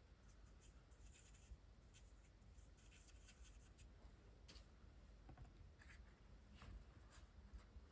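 Faint, irregular scratching strokes of a Spectrum Noir Tri-Colour Aqua water-based marker's tip on hot-press watercolour paper as an image is coloured in.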